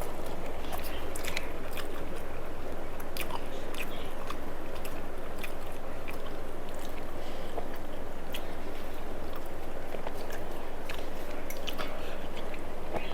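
A person chewing a meal of rice with crisp fried papad and greens, with scattered small mouth clicks and crunches over a steady low hum.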